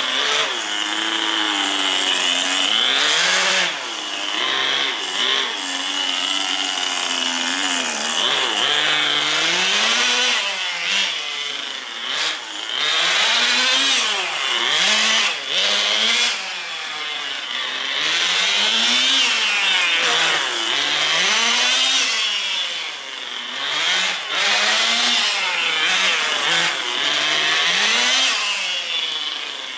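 Tamiya TGS 1/10 RC car's small nitro engine running, its high buzz rising and falling in pitch again and again as the throttle is worked.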